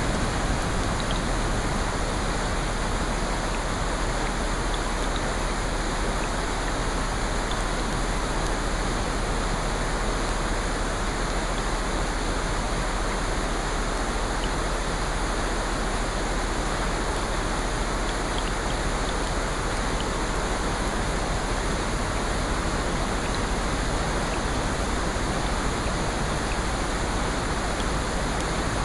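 Steady, even rushing noise of rain, with a few faint scattered ticks.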